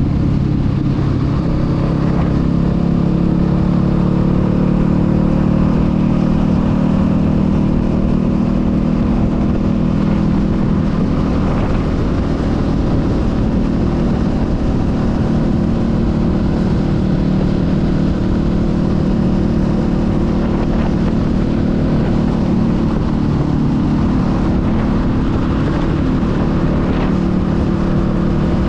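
Honda Rebel 500's parallel-twin engine running under way at fairly steady revs, its pitch drifting slightly up and down with the throttle. A rough wind rush sits beneath it.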